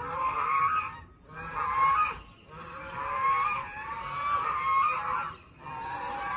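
A group of ducks calling together, many overlapping calls in bouts of one to three seconds with short pauses between.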